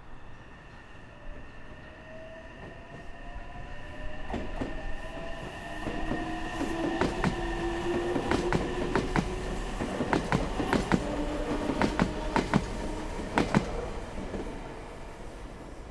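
Meitetsu Nagoya Main Line electric train passing: it grows louder, brings a run of sharp wheel clacks over the rail joints along with held, slowly gliding whining tones, then fades away near the end.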